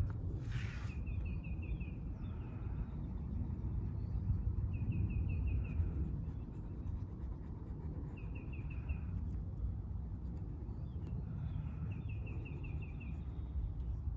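A bird repeats a short phrase of quick, evenly spaced chirps four times, over a steady low outdoor rumble. There is a brief rustle about half a second in.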